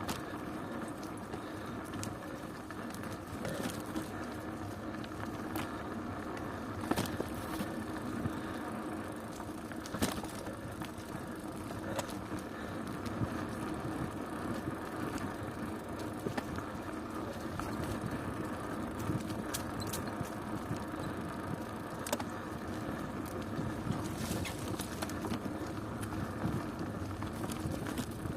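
Bicycle being ridden: a steady rolling noise of tyres and drivetrain, broken by scattered sharp clicks and rattles.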